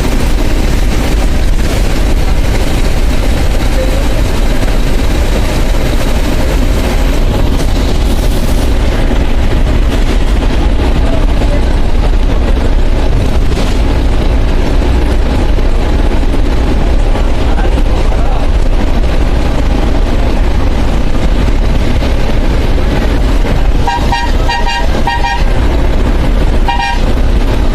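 A bus running on the road, its engine and road noise steady and heavy in the low end. Near the end a vehicle horn sounds a quick series of short toots, then one more.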